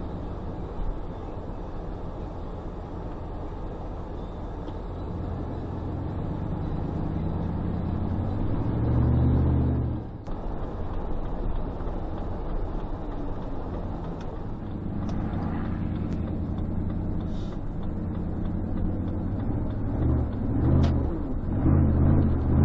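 Car engine and road noise heard from inside the vehicle while driving. The engine revs up to a peak about nine seconds in, then drops off suddenly, and surges again a few times near the end.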